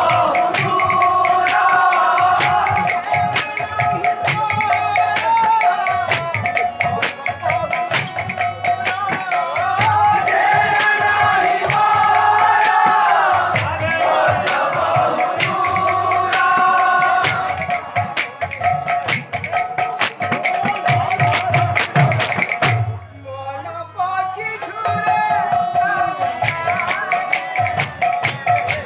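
Kirtan music: hand cymbals struck in a steady beat over drum strokes and a sustained, gliding melody line. The cymbals pause briefly about 23 seconds in, then come back.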